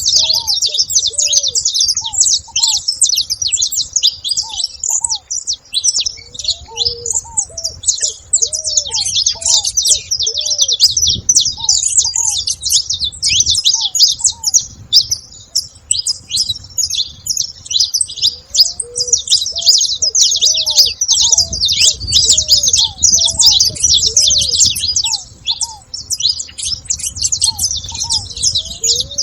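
A flock of saffron finches chirping and calling together at a feeder, a dense, unbroken chatter of many overlapping high chirps. Short, lower arched notes repeat underneath.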